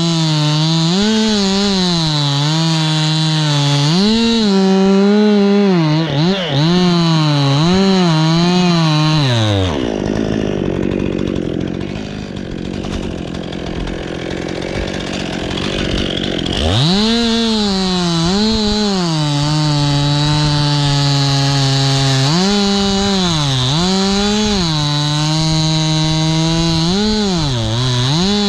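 Chainsaw running and cutting into pine wood, the engine note repeatedly rising and falling as the saw works. About ten seconds in the saw's note drops away for several seconds, leaving a steady rushing noise, then climbs back up about seventeen seconds in and carries on revving and cutting.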